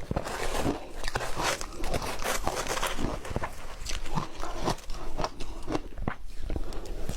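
Ice being bitten and chewed close to the microphone: a dense, irregular run of sharp crunches and crackles as the pieces break up.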